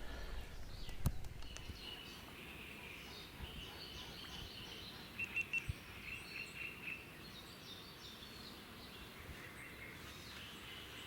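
Birds chirping and calling at dawn, scattered short calls with a quick run of three chirps about five seconds in. A single sharp click sounds about a second in.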